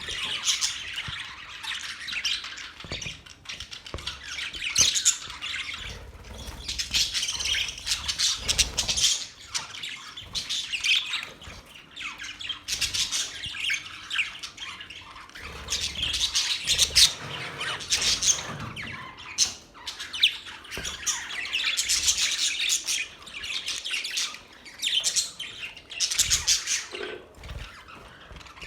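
Several parrots chirping and squawking, their calls overlapping in bouts with short lulls between.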